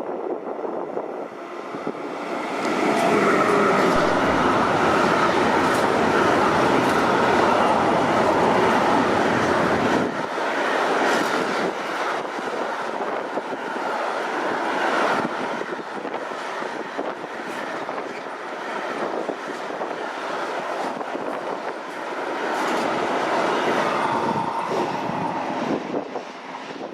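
A train passing close by on the main line, loudest with a deep rumble from a few seconds in until about ten seconds in, then a long run of wheel clicks as the cars go by, fading near the end.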